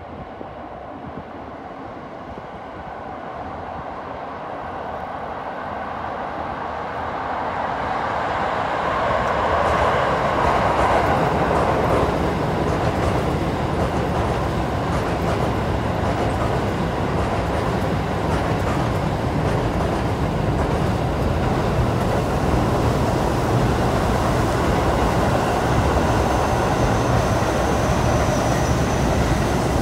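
Keio Line electric commuter train crossing a steel girder railway bridge. Its rumble grows over the first ten seconds or so as it comes onto the bridge, then holds steady and loud, with a faint high whine near the end.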